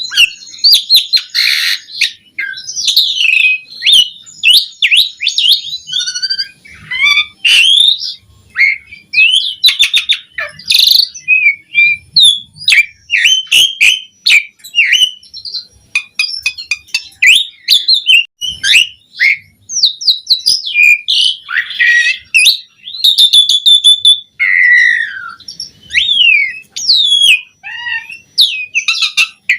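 Javan pied starling (jalak suren) singing at length: a continuous, varied run of quick whistles, rising and falling sweeps, chatters and sharp clicks.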